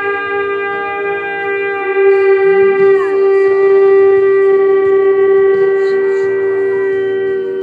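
Shofars sounding long, sustained overlapping blasts. One horn's note slides down and breaks off about three seconds in, while another holds its steady tone.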